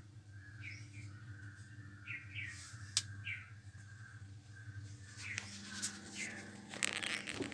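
Small birds chirping, a series of short falling chirps every half second or so, over a steady low hum. A sharp click comes about three seconds in, and a cluster of clicks and rattles comes near the end.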